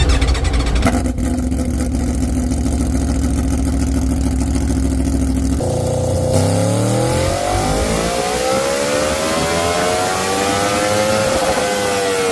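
Aprilia Tuono V4 1100's V4 engine with an SC Project GP22 slip-on exhaust, running on a dyno. It runs steadily at first, then from about six seconds in its pitch climbs steadily as it pulls up through the revs, easing back slightly near the end.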